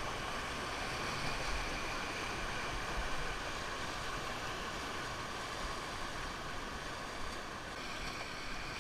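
Rushing river water heard from a raft, a steady, even hiss, with some low wind rumble on the microphone.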